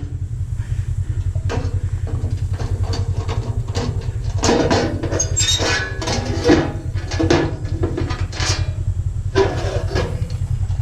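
Metal parts of a stainless steel coffee maker clattering and knocking as they are handled and pulled apart, several sharp clanks with a short ring. Under them runs a steady low rumbling drone.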